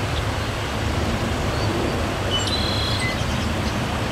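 Steady low outdoor background rumble, with a few faint, short, high chirps about two and a half seconds in.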